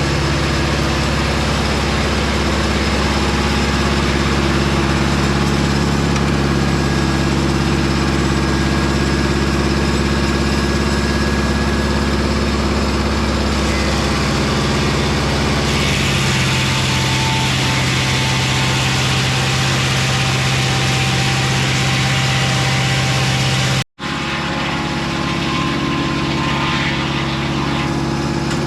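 Mobile Dimension circular-blade sawmill running with a loud, steady engine note. About halfway through the note shifts lower and a hiss rises above it, and near the end the sound drops out for an instant.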